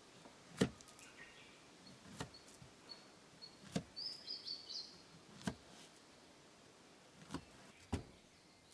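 A few sharp separate taps or clicks, roughly one every second or two, over a quiet background, with a brief faint high chirping in the middle.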